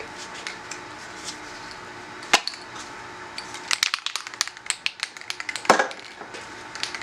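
Irregular clicks and taps from handling, with a rapid cluster of clicks in the middle and two louder knocks, one a little over two seconds in and one near the end.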